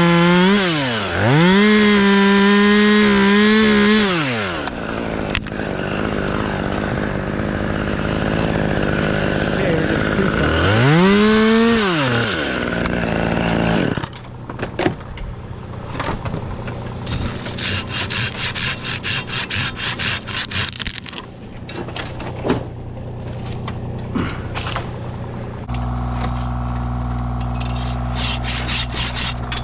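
A chainsaw revs up and down as it cuts for about 14 seconds, then stops. After that a handsaw cuts wood in quick back-and-forth strokes. Near the end a low steady engine hum joins in.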